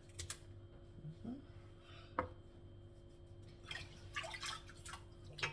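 Water dripping and splashing in a sink as chicken feet are washed, with a few sharp clicks: one near the start and one about two seconds in. A short burst of splashing comes just before two-thirds of the way through.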